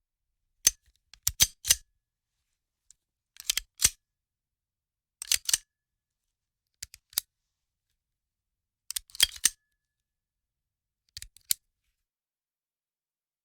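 Sharp metallic mechanical clicks of a weapon's mechanism, coming in short groups of two or three, one group about every two seconds.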